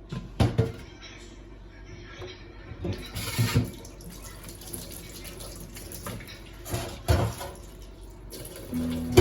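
Several sharp knocks and clatters of household objects being handled, in short clusters, over a faint hiss. Soft music comes in near the end.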